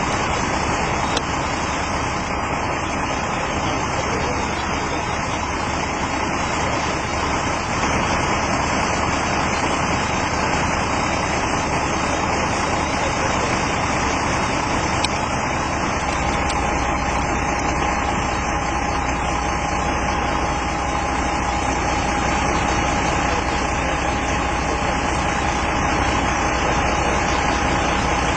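A vehicle engine idling steadily. About halfway through, a steady tone comes in and holds.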